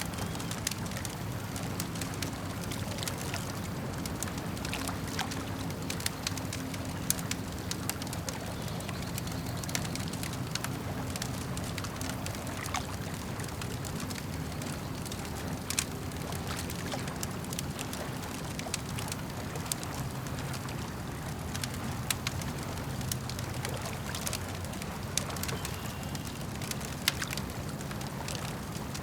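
Campfire crackling, with frequent sharp pops and snaps over a steady low wash of lake water lapping.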